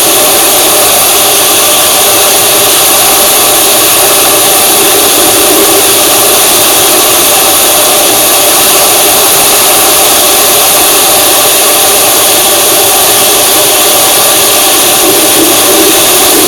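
A moving vehicle's steady engine and road-and-wind noise, loud and unchanging throughout.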